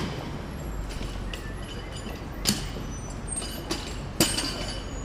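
Pause in jackhammer work: the hammering cuts off right at the start. What remains is a low steady background rumble with three sharp knocks, about two and a half, three and three quarters and four seconds in.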